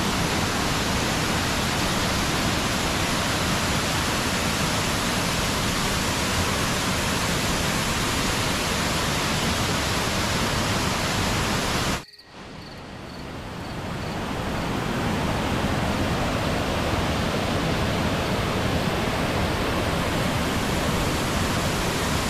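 Waterfall rushing in a steady, dense wash of water noise. About halfway through, the sound cuts out suddenly, then swells back to full over a couple of seconds.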